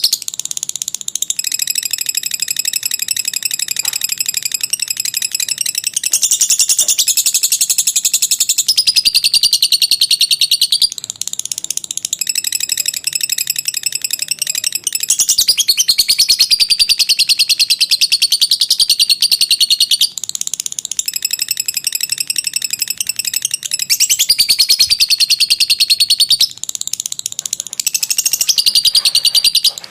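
Lovebird chattering in long, rapid, high-pitched trills (the 'ngekek panjang' song), each run lasting several seconds, with a few brief breaks between runs.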